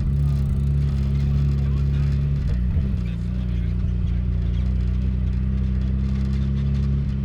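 Car engine running at steady revs, with the low drone dropping to a new steady pitch about two and a half seconds in, as at a change of speed or gear.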